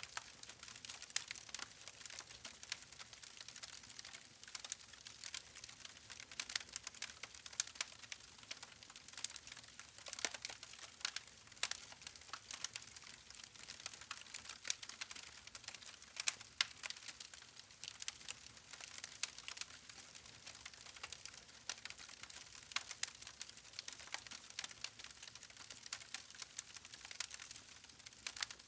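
Wood campfire crackling: a steady run of irregular sharp pops and snaps from the burning logs over a faint hiss.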